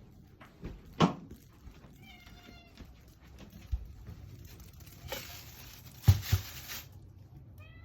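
American Shorthair cat meowing: a wavering cry of under a second about two seconds in, and another starting at the very end. Between them come several thumps, the loudest about a second in and about six seconds in, and a stretch of rustling.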